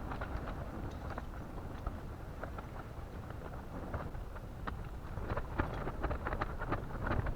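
Wind buffeting the microphone with a low, steady rumble, over scattered light ticks and taps that grow more frequent in the second half.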